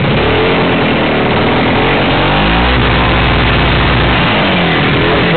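Engine of a vehicle bogged in mud, revving up and down as it strains to drive forward and get unstuck; its pitch dips and climbs again in the middle.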